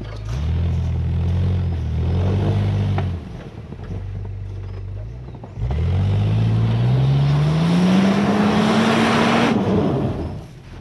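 Off-road 4x4 engine revving: two short blips of throttle, a spell of idle, then a long climb in revs of about four seconds with a building hiss, cut off sharply near the end.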